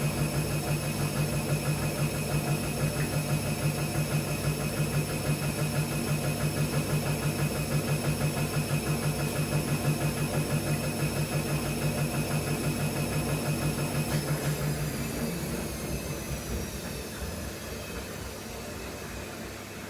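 Gorenje PS 1008 BM washing machine running with a loud, rhythmically pulsing low hum. About fourteen seconds in the motor shuts off and winds down, its high whine falling in pitch as the drum slows.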